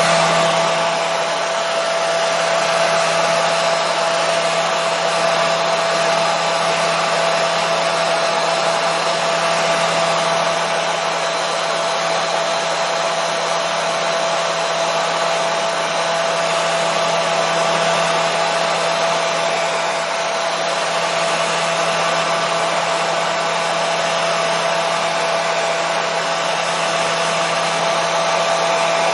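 Hair dryer running steadily: an even rush of blown air with a constant motor tone through it, unchanging throughout.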